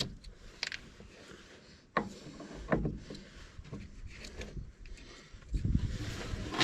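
Knocks, clunks and rubbing from hands working heavy battery cables into place around truck batteries. There are sharp knocks about two and nearly three seconds in, and a louder spell of rubbing and clunking near the end.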